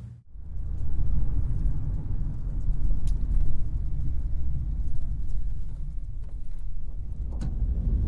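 Deep, steady rumble of an earthquake shaking the ground, with a couple of sharp clicks about three seconds in and again near the end.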